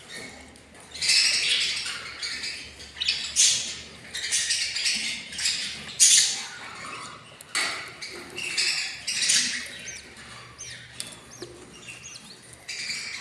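Budgerigars calling: a run of harsh, raspy squawks, with short high chirps near the end.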